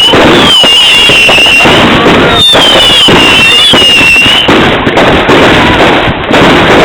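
Fireworks going off in dense, loud crackling bangs. Whistling fireworks add wavering, rising-and-falling shrieks over the first four and a half seconds.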